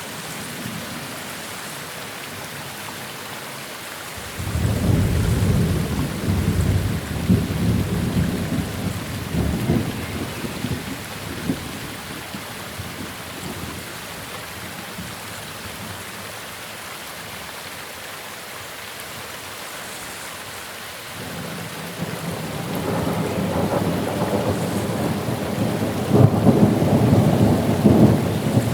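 Steady rain with two rolls of thunder: one breaks suddenly about four seconds in and rumbles for several seconds before fading, and a second builds from about two-thirds of the way through and is loudest near the end.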